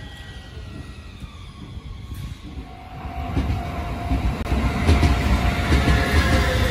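Shin-Keisei 8800 series electric train arriving at a station. A low rumble of wheels on rails grows louder from about three seconds in, with a steady whine and rapid wheel knocks as the cars pass close.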